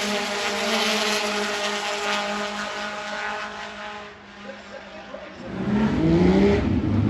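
Race car engines running at steady high revs, fading away about four seconds in. More engine sound then rises, with pitch sweeping up and down.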